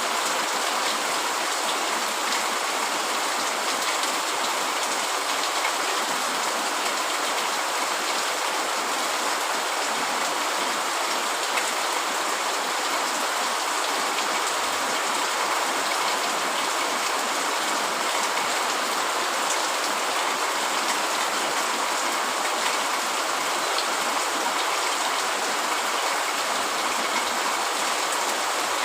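Heavy rain falling steadily on a tent, a constant even hiss with no let-up.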